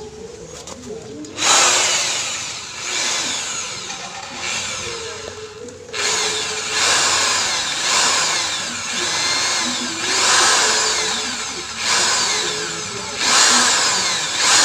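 Honda VFR400 V4 engine being blipped on the throttle again and again, each rev rising sharply and then sagging back down. The engine will not hold an idle on its own.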